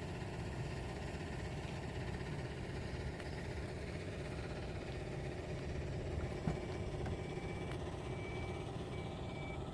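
Steady low rumble of a vehicle engine idling, with a few faint short high beeps near the end.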